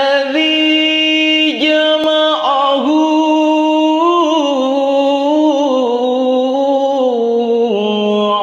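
A single voice chanting Quranic recitation (mengaji) in a melodic style, drawing out long ornamented notes that slide and waver in pitch.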